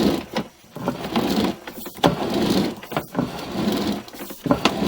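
Sewer inspection camera's push cable being fed down the main sewer line in a series of short pushes, with rattling and sharp clicks.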